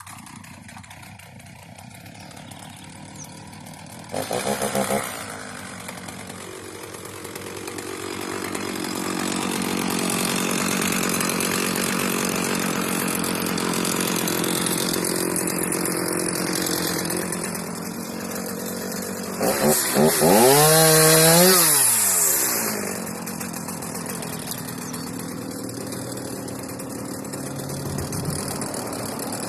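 Stihl MS 310 two-stroke chainsaw running, with a short burst of throttle about four seconds in. Around twenty seconds in it revs up sharply and falls back before settling to a steady run.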